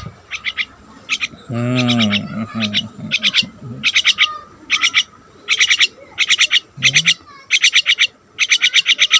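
Pet birds chirping in rapid trains of short, high, repeated notes, one burst following another every second or so, with a brief lower, drawn-out call about two seconds in.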